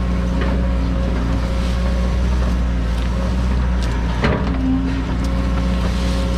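John Deere 130G excavator's diesel engine running steadily, with a few sharp knocks and clanks on top, the loudest about four seconds in.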